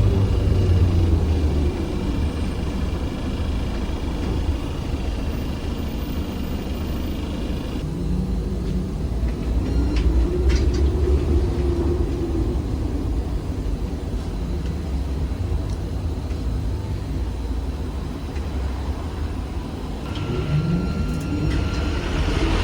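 Trolleybus ride heard from inside a ZiU-682G-016.02: steady road rumble, with the traction motor whine rising in pitch as it speeds up about a third of the way in and again near the end. A few sharp clicks come partway through.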